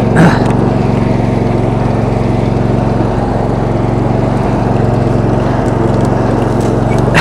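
22 hp Briggs & Stratton V-twin engine of a Roper lawn tractor running steadily under way.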